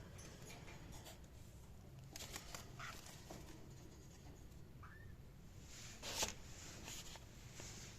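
A cockatiel giving one short, faint chirp about five seconds in, among scattered scratching and rustling noises, the loudest about a second later.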